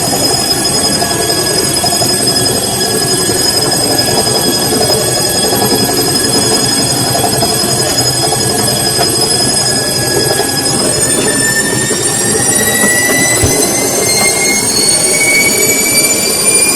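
Samsung washing machine's motor whining steadily over the rumble of the turning drum. About ten seconds in the whine starts rising in pitch as the motor speeds up.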